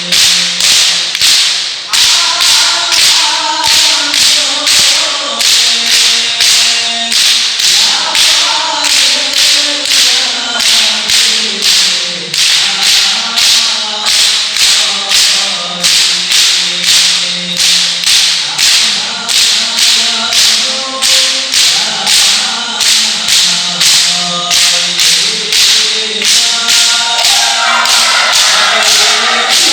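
Group of male voices singing a sholawat together over an even beat of struck terbang frame drums, about two strokes a second.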